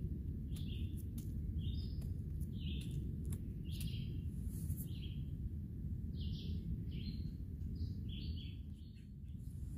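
Small birds chirping, short high calls about once a second, some in quick pairs, over a steady low rumble.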